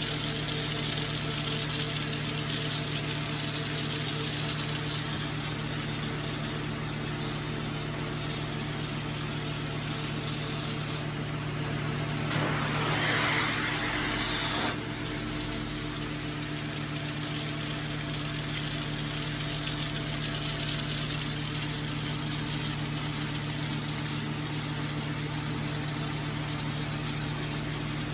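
Prochem Sapphire 370SS truck-mounted hot water extraction machine running steadily, a constant drone under a high vacuum hiss. About halfway through, a louder rush lasting about two seconds, typical of the upholstery hand tool spraying and sucking water through the fabric.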